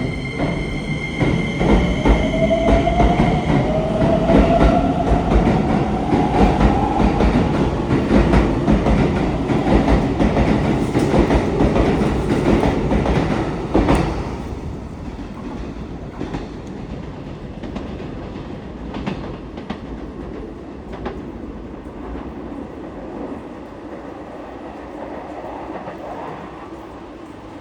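Keikyu electric train of two coupled four-car sets pulling away from a standstill. The traction motors whine, rising in pitch as it speeds up, and the wheels clatter over the rail joints. It is loudest as the cars pass, then drops off sharply about halfway through and fades into the distance.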